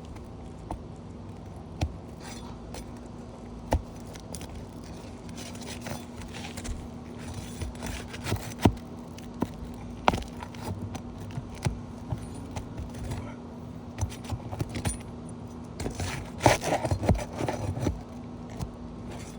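Asphalt roof shingles being pried up from their sealed tar strip: irregular scrapes, crackles and sharp clicks, with a few louder knocks and a busier stretch of scraping near the end.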